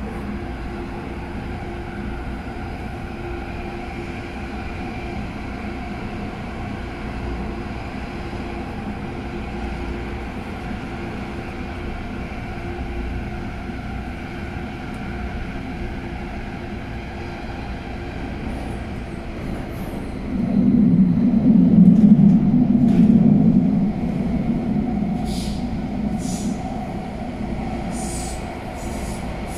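MTR Airport Express A-Train carriage running, heard from inside: a steady rumble with faint steady whining tones. A louder low rumble rises about 20 seconds in and lasts a few seconds, then eases. Short high wheel squeaks come near the end.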